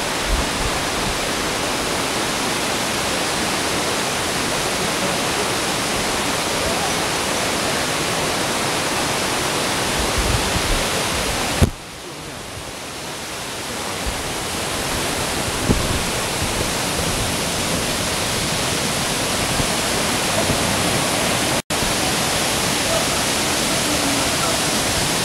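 Waterfall: a steady rush of falling water. About halfway through it drops away suddenly and swells back over a couple of seconds, and near the end it cuts out for an instant.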